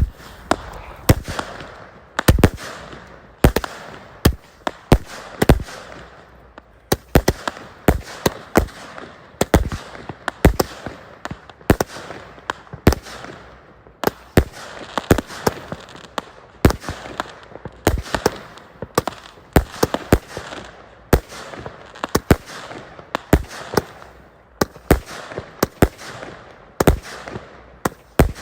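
Fireworks going off in a long barrage: sharp bangs at about one or two a second, unevenly spaced, with a hiss between them.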